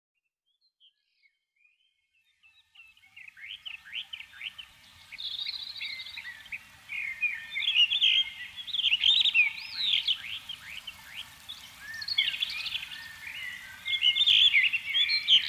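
Several birds singing and chirping: quick rising and falling calls that fade in after a couple of seconds of near silence and grow louder and busier.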